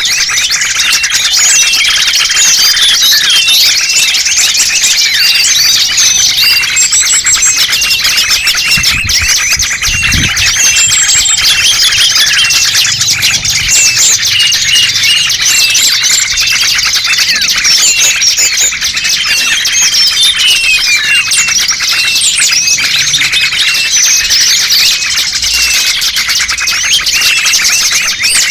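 Many small songbirds chirping and twittering at once in a dense, unbroken chatter of short high calls: a bird-lure (pikat) recording for calling in small wild birds.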